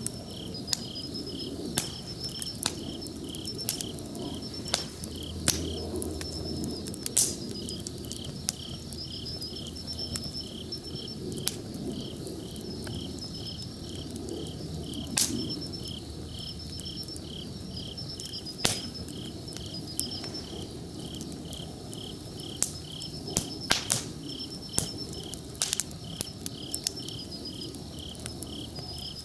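Wood campfire burning with a steady low rush and scattered sharp crackles and pops, a few louder snaps standing out. Behind it an insect chirps in an even rhythm, about two chirps a second, with a fainter high trill.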